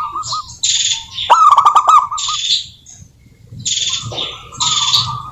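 Zebra doves calling: quick runs of short, repeated cooing notes, the loudest run about a second in, with bursts of higher chirping in between and a short pause near the middle.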